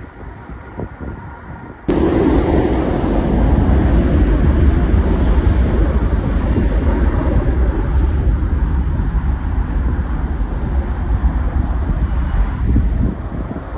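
Loud aircraft engine roar with a deep rumble that cuts in suddenly about two seconds in and holds fairly steady, easing off near the end.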